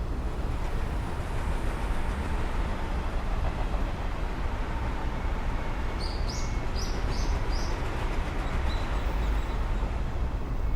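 Steady noise of a train running, heavy in the low end, with a quick run of four or five high chirps about six seconds in.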